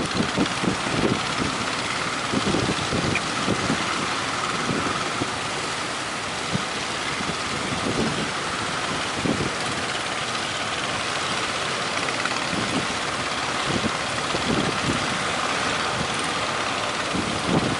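Strong wind buffeting the microphone in irregular low gusts over a steady rush of breaking surf.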